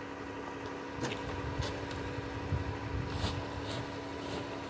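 Minivan engine idling steadily, with several short brushing swishes as snow is swept off the front bumper and grille by hand.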